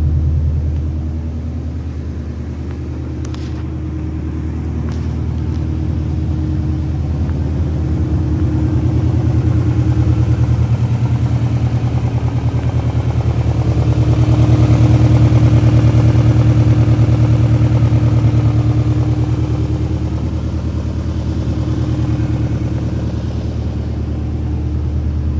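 Honda Civic Type R's 1.6-litre B16B four-cylinder engine idling steadily after a cold start, its level slowly swelling and fading.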